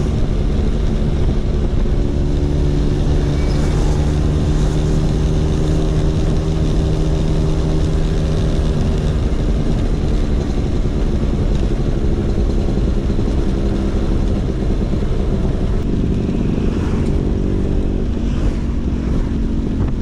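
Vespa PX 150's two-stroke single-cylinder engine running through a DRC Victory racing exhaust. It holds a steady note for several seconds, then the pitch shifts around the middle and again near the end.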